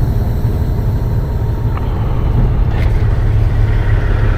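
Peterbilt 389 semi truck's diesel engine idling steadily, with a couple of faint clicks about two and three seconds in.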